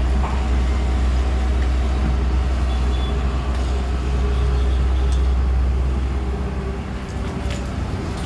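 Excavator's diesel engine running steadily, a deep low drone that eases slightly near the end.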